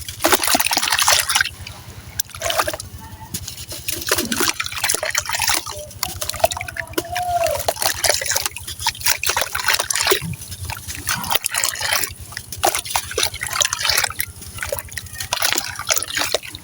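Chunks of dry sand-cement crumbling into water, an irregular run of small crackles and pops over wet trickling and dripping.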